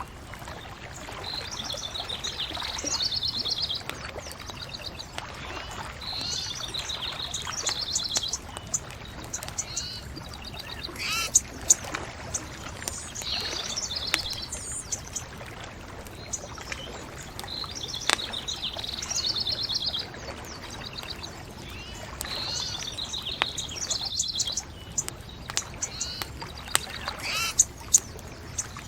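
A songbird singing short trilled phrases every few seconds, over a bonfire's steady low hiss and scattered crackles, with a few sharper pops.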